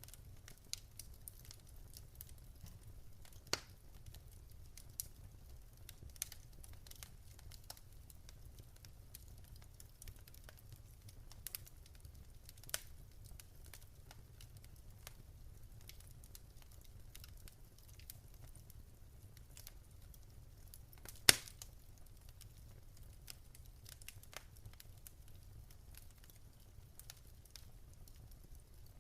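Wood fire in a fireplace crackling softly over a low rumble, with scattered pops and snaps and one louder pop about 21 seconds in.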